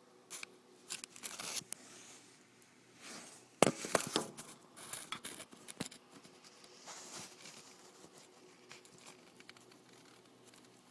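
Irregular rustling and crinkling close to the microphone, with scattered sharp clicks; the loudest click comes a little over a third of the way in.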